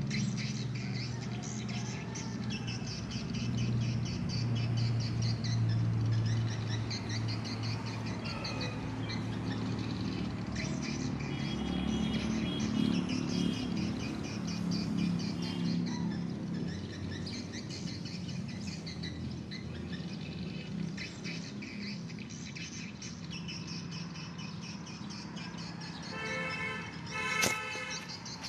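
Many swiftlets twittering in rapid high chirps, over a steady low hum. A short pitched sound stands out near the end.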